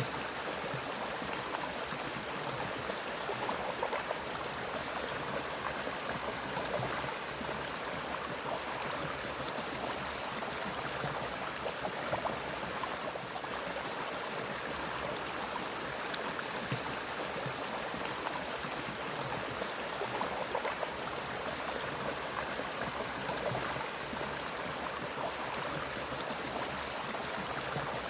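Mountain stream flowing steadily, an even rushing of water with no pauses. A constant thin high-pitched whine sits over it.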